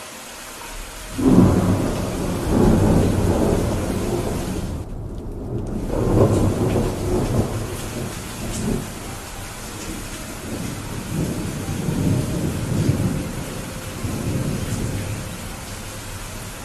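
Steady rain with a long rolling thunderclap that breaks about a second in and rumbles on in several swells, easing off near the end.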